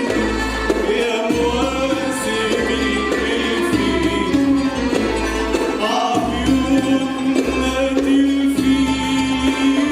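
A choir singing Arabic song with an instrumental ensemble accompanying, over steady bass notes.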